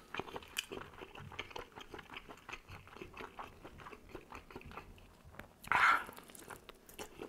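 Close-miked chewing of cooked squid: many small, wet mouth clicks, with a louder, short sound a little under six seconds in.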